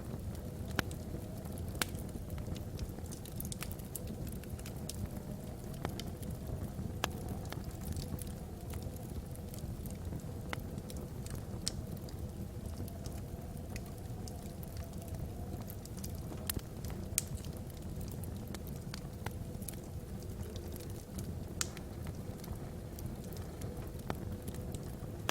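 Wood fire burning logs in a fireplace: irregular sharp crackles and pops, a few every second or two, over a steady low rumble.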